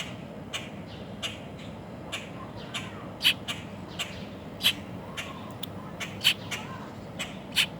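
Small bird giving short, sharp chirps, irregularly about once a second, some louder than others, over a steady background hiss.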